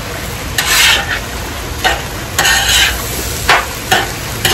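Metal spatula scraping and tapping on a hot flat-top griddle while stirring fried rice, which sizzles steadily underneath. About six strokes, two of them longer scrapes (one about a second in, one just past the middle), the rest short sharp clicks.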